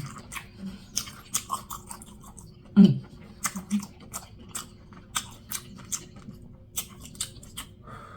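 Close-miked chewing with wet lip smacks and mouth clicks, many short sharp ones scattered throughout. About three seconds in comes a short low hum from the eater, the loudest sound.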